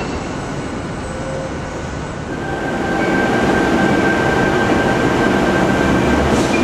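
Train passing, a steady noisy rumble that grows louder about two and a half seconds in, with a thin steady high whine over it.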